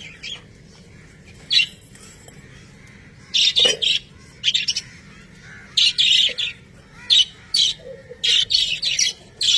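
Budgerigars chattering, with short harsh chirps and squawks in quick clusters.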